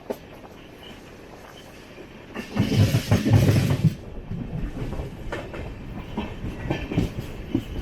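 Passenger train coach running along the track, wheels clicking over rail joints, with a loud rushing surge lasting about a second and a half, starting about two and a half seconds in.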